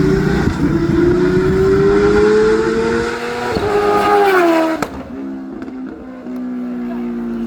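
Kawasaki Ninja sportbike's inline-four engine revving hard in a flyby: the note climbs steadily for about three seconds, then falls quickly as the bike passes, settling into a lower, steadier engine note.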